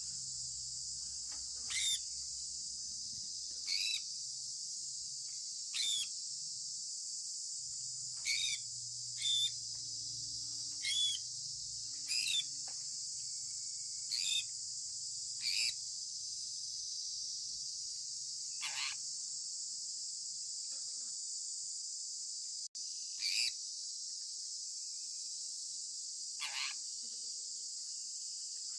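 A steady, high-pitched insect chorus, with a short call that sweeps downward in pitch repeating about every two seconds.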